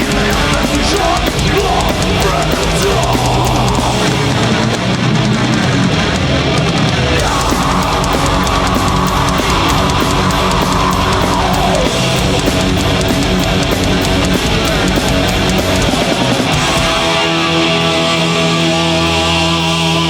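Live crossover thrash metal band playing loud: distorted electric guitars, bass and drum kit, without vocals. A guitar line slides down in pitch near the middle, and the riff changes to long held chords near the end.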